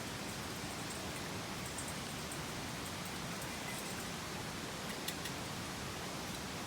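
Mountain stream flowing, a steady even rush of water, with a couple of faint small clicks about five seconds in.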